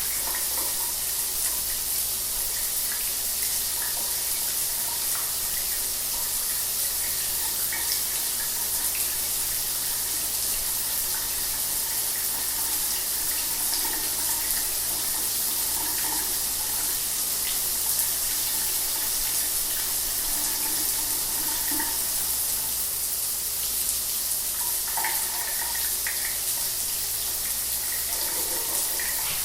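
Shower water running steadily: an even hiss of spray with small splashes and patters on the surface below.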